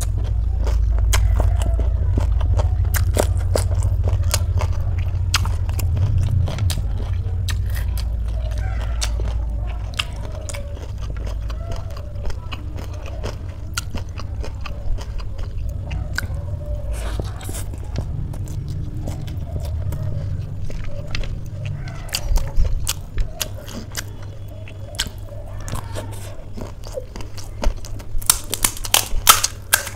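Close-miked chewing and crunching of crunchy street snacks and noodles, with many small crisp clicks. Near the end comes a quick run of loud crackles as a hollow, crisp panipuri shell cracks.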